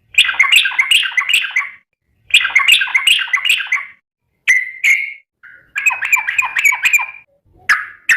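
Yellow-vented bulbul (trucukan) singing: four rapid, bubbling, chattering phrases, each a second or two long, separated by short pauses, with a few sharp single notes near the end.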